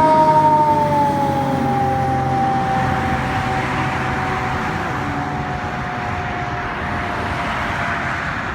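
Emergency vehicle's siren holding a steady wail that drops in pitch about a second in and keeps sinking slowly, over the noise of the vehicle on the road.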